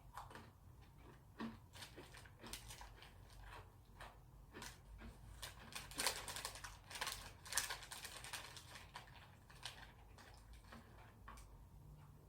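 Close-up crunching of strawberry Pepero biscuit sticks being bitten and chewed: faint, irregular crisp crunches, thickest about halfway through.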